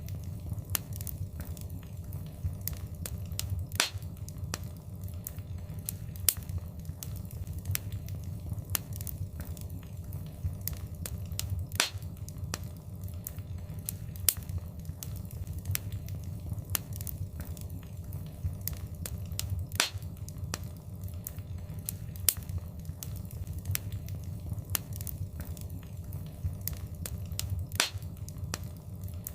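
Wood fire crackling in a fireplace: many small sharp pops and snaps over a low steady rumble of the flames, with a few louder pops every several seconds.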